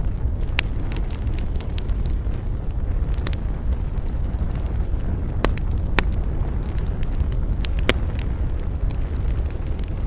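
Wood campfire burning with a steady low rumble, and sharp crackles and pops from the burning wood scattered through it, a few of them louder.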